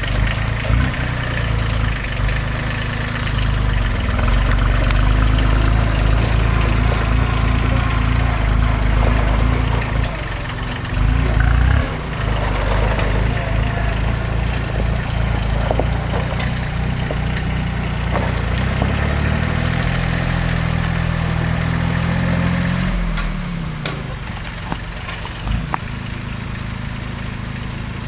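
Diesel engine of a Timberjack forestry forwarder running steadily, with a few knocks. About two-thirds of the way through it revs up, then drops back to a lower, quieter speed near the end.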